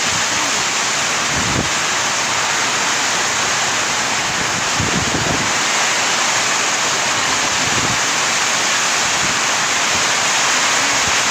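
Heavy rain pouring down steadily in a strong storm wind, with a few low gusts buffeting the microphone.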